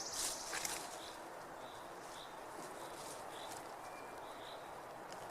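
Outdoor ambience: a steady hiss with a faint, high chirp repeating about every half second, and a few short clicks near the start.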